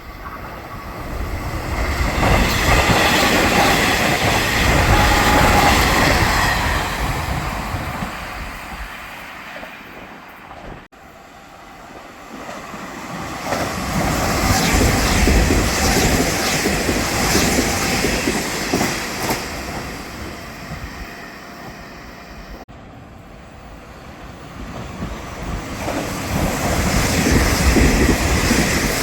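Nishitetsu electric commuter trains passing, wheels clattering on the rails. Three passes in a row, each swelling and then fading, with abrupt cuts between them about 11 and 23 seconds in.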